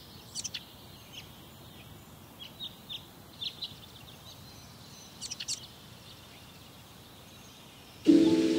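Small birds chirping: short high calls every second or so, with faint outdoor hiss between them. Music starts near the end.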